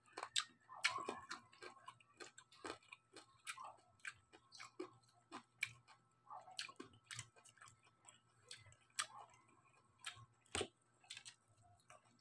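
Chewing of crispy deep-fried pork belly (lechon kawali): faint, irregular crunches and clicks of the crackling skin, a few a second.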